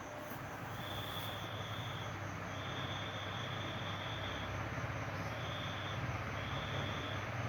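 Accord 48-inch ceiling fan running with a steady low motor hum. An insect gives several short, high trills over it.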